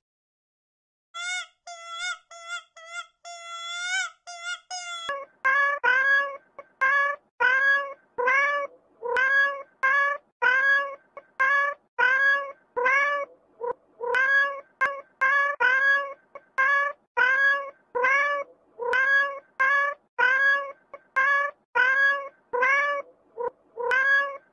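A cat meowing over and over in short, evenly spaced meows, about two a second. A few seconds of higher, thinner cries come before the meowing.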